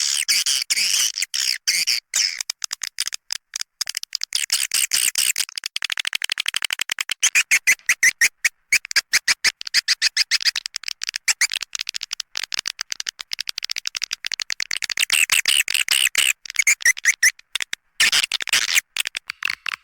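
Recorded swiftlet calls played as a lure sound for a swiftlet house: rapid, high-pitched twittering chirps and clicks packed closely together, swelling and thinning in waves. The track is meant to draw swiftlets in at the birds' entry hole.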